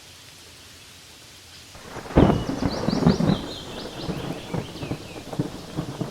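Steady light rain on leaves, then about two seconds in a sudden loud clap of thunder that rumbles and crackles on, slowly fading.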